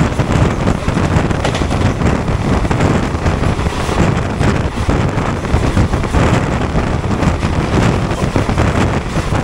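Express passenger train running at speed, heard from on board: a continuous loud rush of wheel and track noise with a dense clatter, and wind buffeting the microphone.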